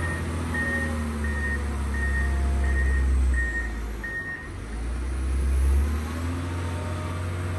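John Deere 670 GP motor grader's diesel engine running with its reversing alarm beeping about one and a half times a second while the grader backs up. The beeping stops about four and a half seconds in, and the engine note dips briefly at the same time.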